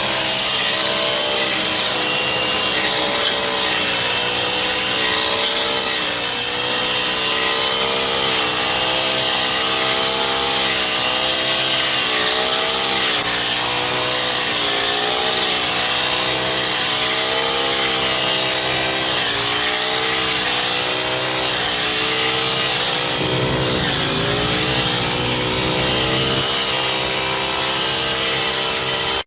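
Honda GX35 brush cutter's small four-stroke single-cylinder engine running at high speed, its pitch wavering up and down every second or two, with a short dip in speed a little before the end.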